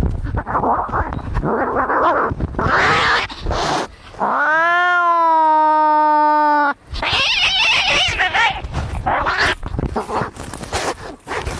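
Angry cats fighting: harsh hissing and spitting, broken in the middle by one long caterwauling yowl that rises and then holds steady for about two and a half seconds.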